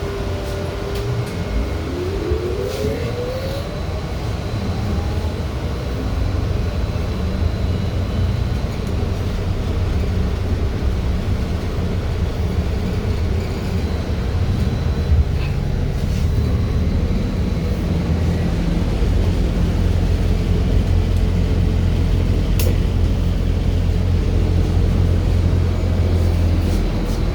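BKM 32100D trolleybus pulling away and running, heard from inside the cabin: the electric traction drive's whine rises in pitch over the first few seconds as it accelerates, then a steady low rumble of the moving vehicle that grows heavier later on.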